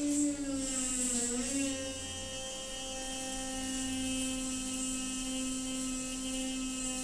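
Noisy water pipe humming with a steady pitched drone over a hiss. The pitch dips and wavers about a second in, then settles slightly lower and holds.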